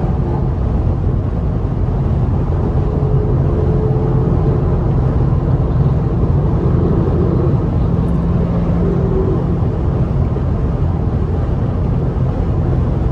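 Steady car engine and road drone, an even low hum that holds at one pitch with no revving.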